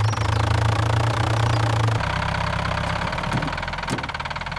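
A vehicle engine idling steadily with a fast low throb, shifting to a slightly quieter, lower running note about halfway through. It is a cartoon sound effect.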